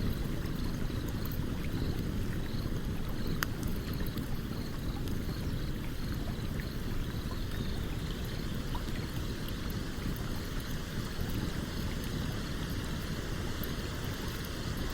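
Stream flowing steadily under a campfire crackling, with small sharp pops scattered through and one stronger pop about three and a half seconds in.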